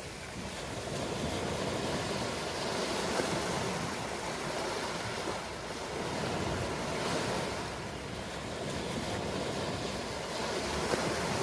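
Ocean surf washing in continuously, swelling and easing every few seconds as waves break and draw back.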